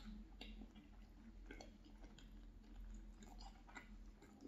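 Faint close-up chewing of a mouthful of cheeseburger, with irregular soft wet mouth clicks and smacks.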